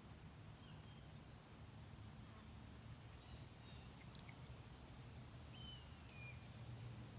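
Near silence outdoors: a faint low steady hum with a few distant bird calls, short whistled notes, the clearest one near the end sliding down in pitch.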